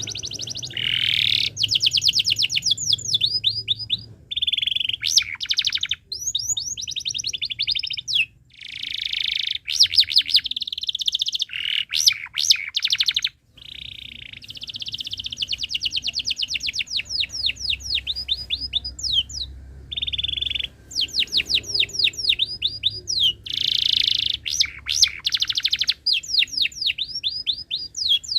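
Domestic canary singing: fast runs of repeated chirps and rolling trills in phrases of a few seconds, separated by short pauses, with some held notes between them.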